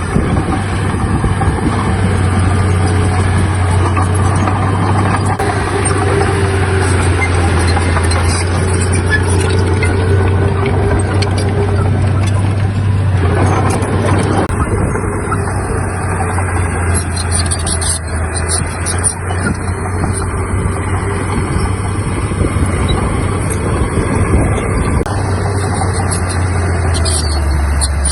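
Heavy diesel engine of earthmoving equipment running steadily. Its low drone steps down in pitch about halfway through and again near the end.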